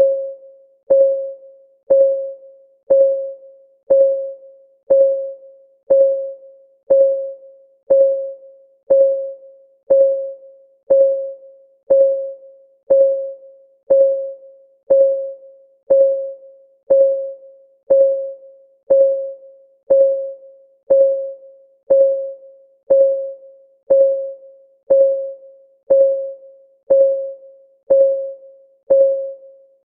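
Countdown timer's synthetic clock-ticking sound: one short, pitched tick every second, each a sharp click that rings briefly at a mid pitch and dies away, in a perfectly even beat.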